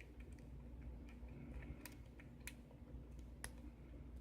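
Faint, scattered clicks of a lock pick working the pin stack inside a worn brass Ruko R501 padlock, a few sharp ticks a second or so apart over a low steady hum.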